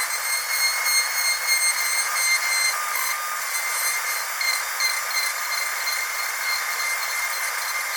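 Dental drill whining steadily at a high pitch, several thin high tones over a hiss.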